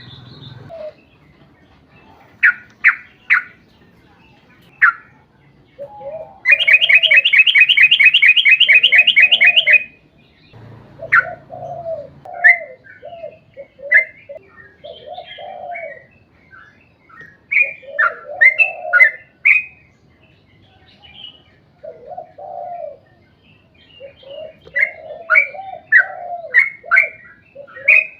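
Yellow-vented bulbul (trucuk) calling in quick clusters of bright chattering notes, with a long rapid trill of about ten notes a second lasting some three seconds midway. Lower warbling notes recur underneath throughout.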